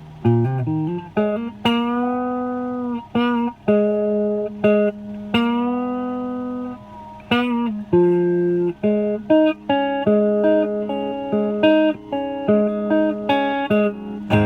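Epiphone 1959 Les Paul Standard reissue electric guitar on its neck pickup, played clean through an Orange amp: picked single notes and short phrases, with a few held notes bent up and back down.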